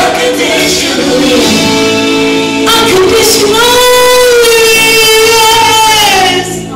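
A gospel singer holding long, wavering notes over steady sustained instrumental chords. The last long note fades out just before the end.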